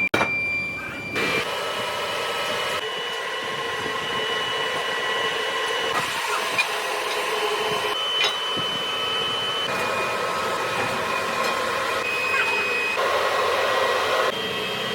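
Factory machinery running: a steady hum and hiss with several thin, high whining tones. The mix changes abruptly every couple of seconds as one machine's sound gives way to another's.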